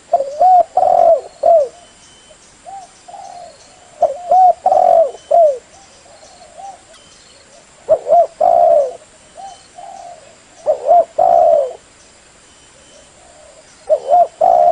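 Spotted dove cooing: a phrase of several short hooked coos about every three and a half seconds, with softer single notes between phrases.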